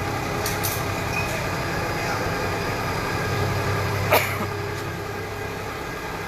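Forklift engine running steadily, with a sharp knock about four seconds in.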